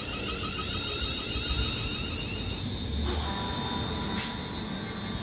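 Class 350 Siemens Desiro electric multiple unit pulling away: its traction equipment whines in a fast run of rising tones over a low rumble, stopping about two and a half seconds in. A short hiss follows about four seconds in.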